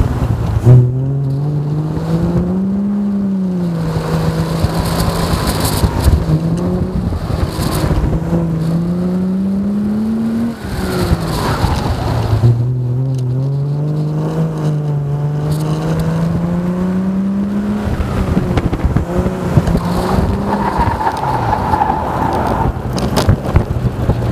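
Triumph car's engine pulling hard through an autocross run, its pitch climbing under acceleration and dropping sharply at each lift-off or gear change, then climbing again.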